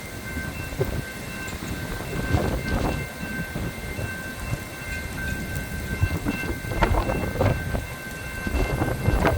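Strong wind gusting against the microphone: a low rumble that swells and fades every few seconds. A faint, steady high-pitched whine runs underneath.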